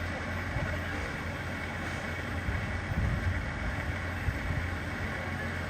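Steady low rumble of a moving train, with no clear beat or sudden knocks.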